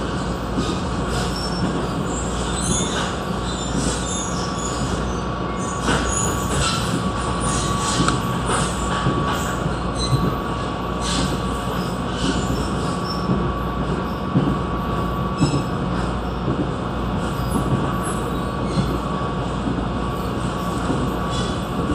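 Train running on the rails: a steady rumble of wheels, a thin sustained squeal, and many short high squeaks and clicks.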